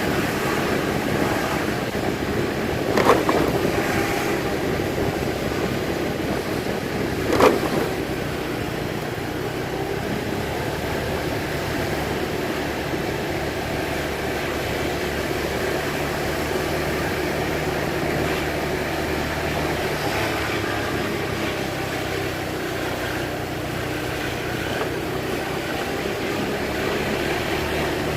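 Vehicle engine running steadily with road and wind noise, with two short knocks, about three seconds in and again about seven seconds in.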